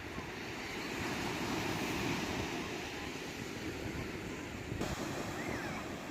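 Sea waves washing on the shore, one swelling louder about a second in, with wind buffeting the microphone.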